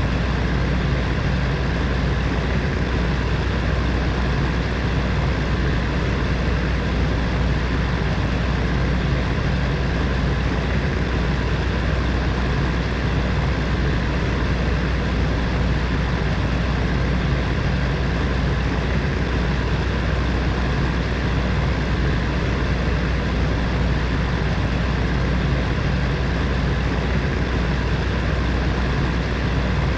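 Space heater fan running steadily: a constant whir of air noise with a deep low hum and no changes.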